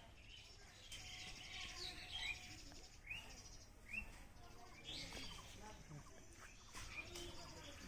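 Birds chirping faintly: short rising chirps about once a second, over a fast, high trill.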